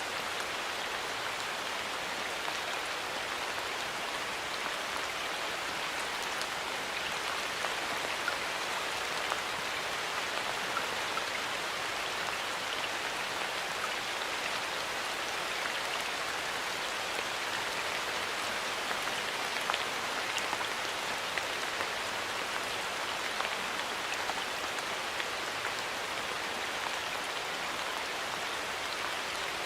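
Steady rain falling in a forest, an even patter with many small individual drop ticks.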